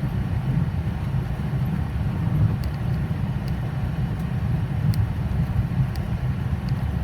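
Boeing 737 jet engine running up during start, before it settles at idle: a steady low rumble, with faint sharp ticks now and then.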